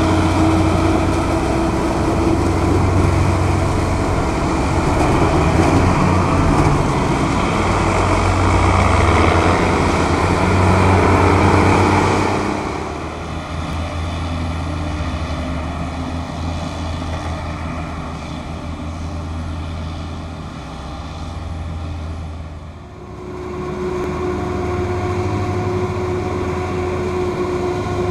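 Large diesel farm machinery at work, a Claas forage harvester and tractor, running loud for about the first twelve seconds, then quieter. Near the end the engine noise swells again with a steady whine.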